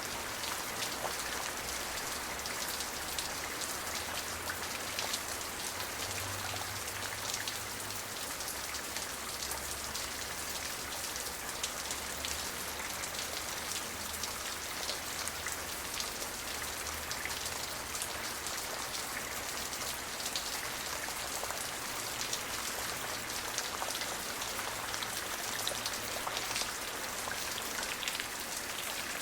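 Steady rain falling, a dense even hiss flecked with many small drop ticks on a surface, with no thunder.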